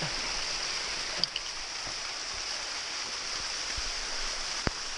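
Steady outdoor hiss, like rushing water or air, with a couple of faint clicks about a second in and near the end.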